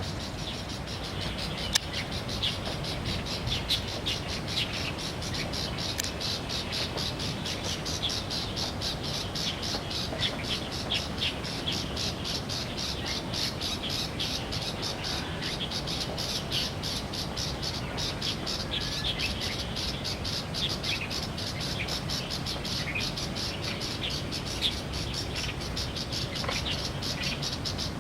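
Light-vented bulbuls calling, a busy run of short chirping notes throughout, over a low steady rumble.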